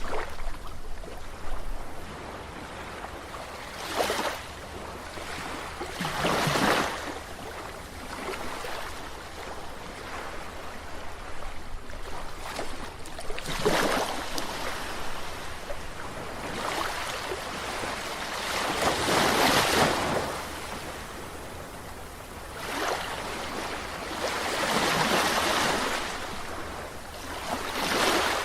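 Sea waves washing onto the shore, each swell rising and falling away every few seconds at an uneven pace, with the loudest surge about two-thirds of the way through. Underneath runs a steady hiss of surf, with a little wind on the microphone.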